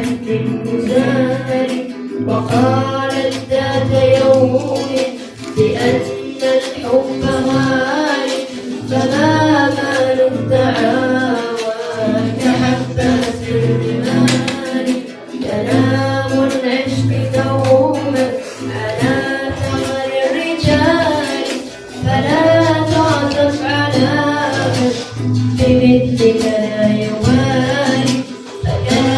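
A song with singing over plucked-string accompaniment and a steady tambourine-like beat.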